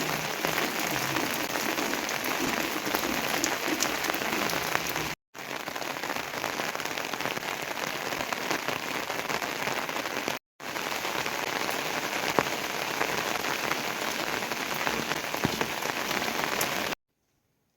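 Heavy rain falling steadily, with many single drops pattering on surfaces. It drops out abruptly for a moment twice, and cuts off suddenly near the end.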